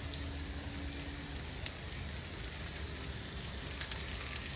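Food sizzling steadily on a hot griddle, an even hiss with faint scattered ticks.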